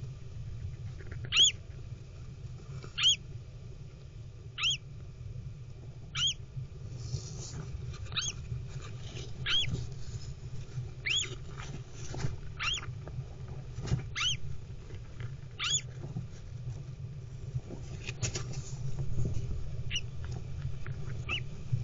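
A bird chirps repeatedly: short high rise-and-fall chirps, about one every one and a half seconds, thinning out near the end. Under them runs a steady low hum, with occasional scratchy rustling as the rosella hen shifts on the nest litter.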